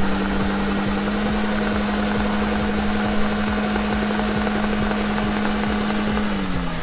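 Car engine held at steady high revs while the tiny red-tyred front wheel spins in place, scrubbing against the asphalt. The engine note drops near the end as the revs come down.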